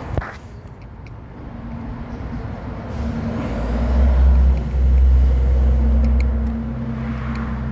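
A vehicle's engine running low and swelling, loudest about four to six seconds in, then easing off, like a passing vehicle. A sharp click sounds right at the start.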